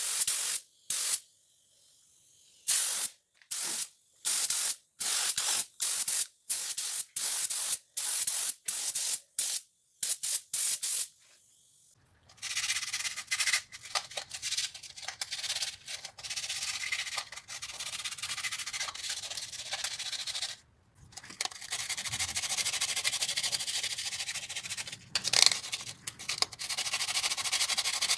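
A rapid series of about fifteen short spray hisses, then steady scratchy hand scrubbing of metal parts, pausing briefly once about twenty-one seconds in.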